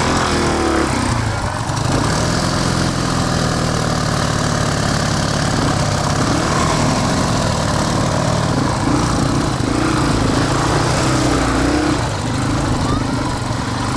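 Motorcycle engine running steadily, its pitch wavering a little now and then.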